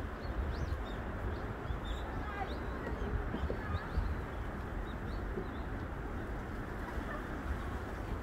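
Small birds chirping in short high calls, mostly in the first few seconds, over a steady low background rumble of the outdoors.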